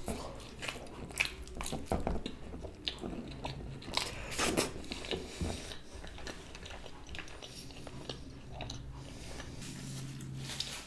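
Close-miked chewing of a mouthful of cheese pizza: irregular wet mouth sounds and small crunches of crust, with louder crunches about two and four seconds in.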